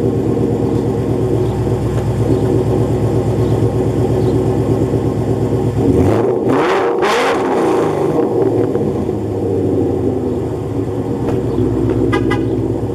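2015 Ford Mustang GT's 5.0-litre V8 with Stainless Works headers and exhaust, idling loudly, then revved about six seconds in to about three and then four thousand rpm and falling back to idle.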